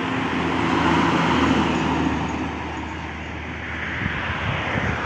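Heavy truck driving past, its diesel engine and tyre noise loudest about a second in and then easing off.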